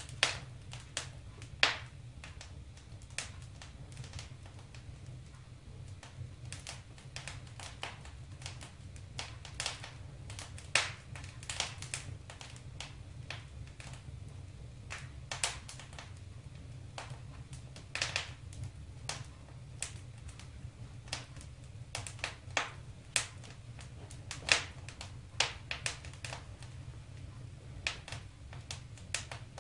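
Wood fire crackling in a fireplace: irregular sharp pops and snaps, sometimes several in quick succession, over a steady low rumble.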